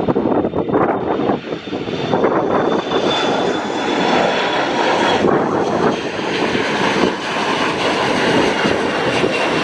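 Fuji Dream Airlines Embraer regional jet taking off, its CF34 turbofans running at takeoff thrust: a loud, steady rush with a high fan whine over it. Gusty wind buffets the microphone.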